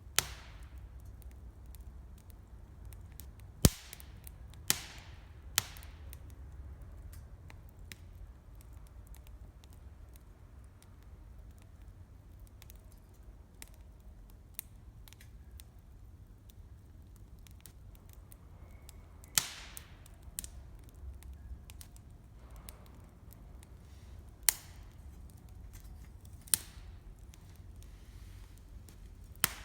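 Wood campfire crackling: many small faint snaps, with about eight loud, sharp pops scattered irregularly across the stretch.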